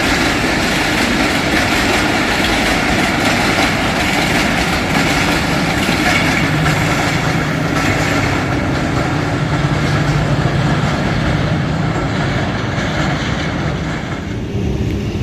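A train passing close by on the track: a loud, steady rumble of wheels and coaches on the rails, easing a little near the end.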